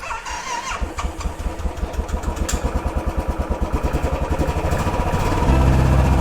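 Motorcycle engine running with an even putting beat, about nine pulses a second, then louder and steadier about five seconds in as the revs rise.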